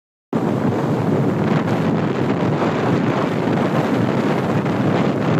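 Wind buffeting the microphone at the seashore: a steady rushing noise that starts abruptly just after the beginning.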